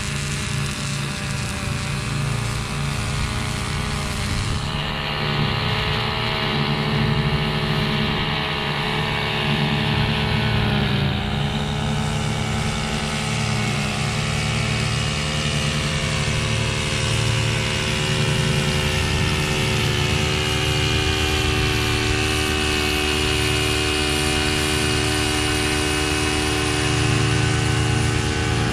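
Husqvarna V554 stand-on zero-turn mower running steadily, its engine pitch dipping briefly twice partway through.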